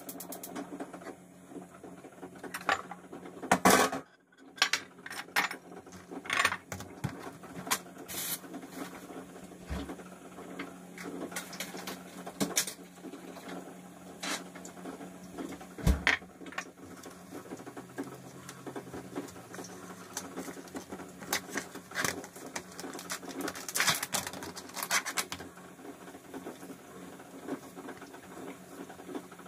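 Household handling sounds: a run of light clicks, taps and knocks, with a louder clatter about four seconds in and a sharp knock about sixteen seconds in, over a faint steady hum.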